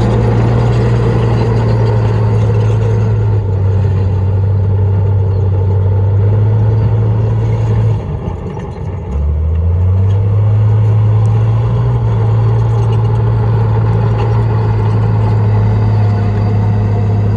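Heavy diesel engine of an earthmoving machine running steadily under load. About eight seconds in it drops briefly in level and pitch, then revs back up and runs on steadily.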